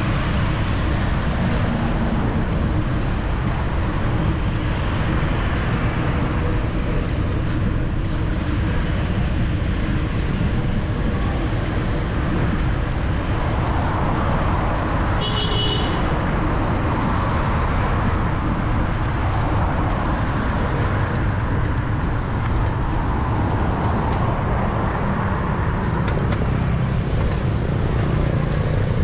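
Steady city street traffic noise with a deep rumble throughout, and a short high beep about halfway through.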